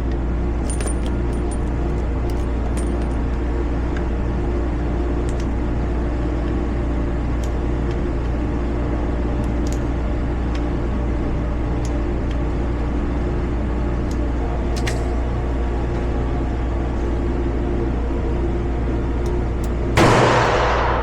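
A steady mechanical hum with faint scattered clicks, then a single loud shot from a Smith & Wesson 640 Pro Series revolver near the end.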